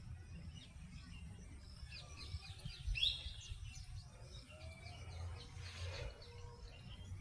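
Several birds chirping and calling in short notes, one louder chirp about three seconds in, over a steady low rumble.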